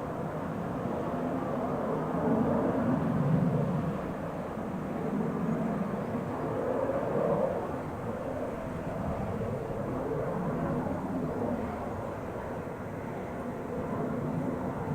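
Jet airliner engine noise: a low rumble that swells and eases every few seconds.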